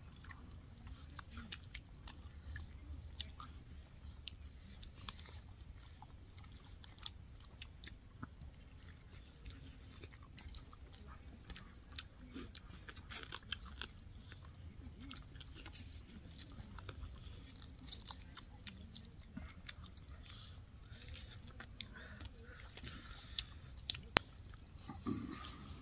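Someone chewing and biting into masala chicken lollipops, with many scattered crunches and sharp clicks and one louder click near the end.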